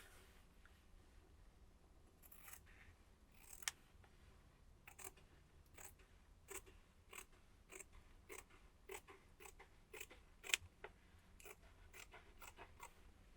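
Faint, sharp clicks or snips: a few scattered ones at first, then a steady run of about two a second.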